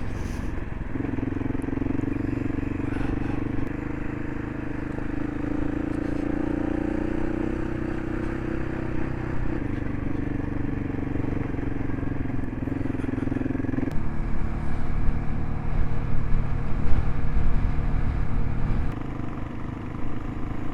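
Gas Gas ES 700's single-cylinder engine running steadily while riding. About 14 s in its pitch drops and the sound turns louder and rougher.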